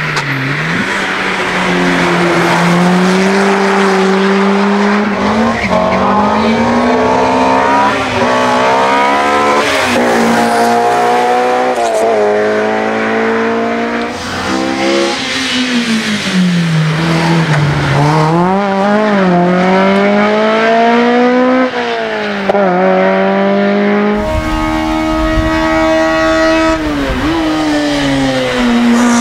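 Racing touring car engine at full throttle on a hillclimb. It revs up and drops back again and again as it shifts through the gears, falls away about two-thirds of the way through as the driver lifts and downshifts for a bend, then pulls hard again.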